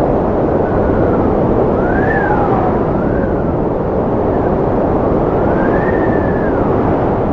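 Strong wind blowing with a steady rushing noise, over which a high howling whistle rises and falls in pitch several times.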